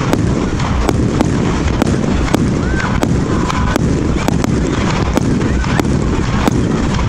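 A 1.3G firework compound cake firing continuously: a dense low rumble of launches and bursts, with sharp cracks coming irregularly, about two a second.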